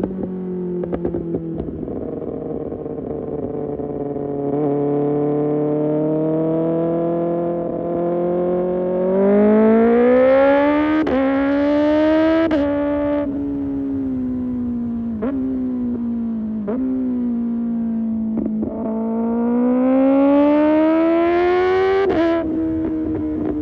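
Kawasaki ZX-6R inline-four through an Arrow Pro Race exhaust under way: the engine note holds low for several seconds, then climbs hard with two quick upshifts, falls away with a few sharp cracks as it slows, and climbs again to another shift near the end.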